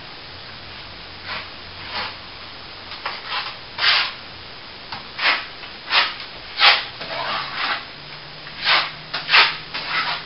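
Plastering tool scraping on plaster in about a dozen short, irregular strokes.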